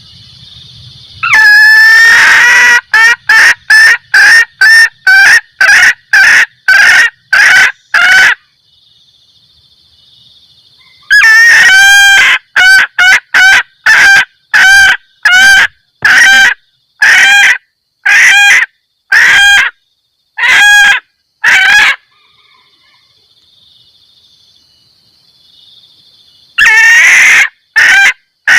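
Junglefowl hen giving her repeated cackling "kek-kek" mating call, the call hunters play to lure a male: loud clucks repeated about twice a second in three bouts, with pauses of a few seconds between them.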